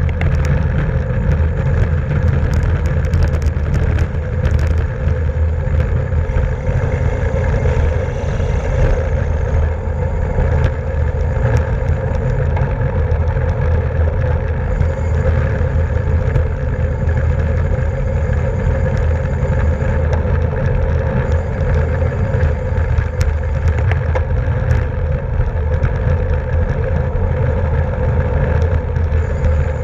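Steady rush of wind and road noise from a bicycle moving at race speed, a constant low rumble with a steady hum and scattered light clicks over it.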